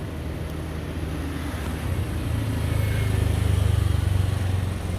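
A motor vehicle's engine rumbling past, growing louder about two seconds in and dropping away near the end.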